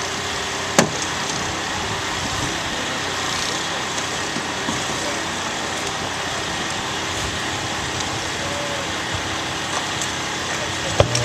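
A vehicle engine running steadily, with one sharp click about a second in.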